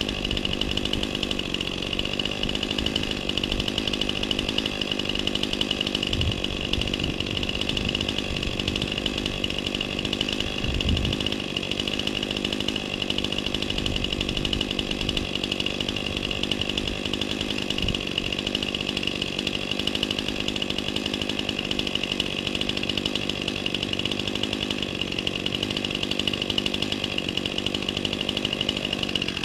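Chainsaw running steadily at an even pitch, without letting up.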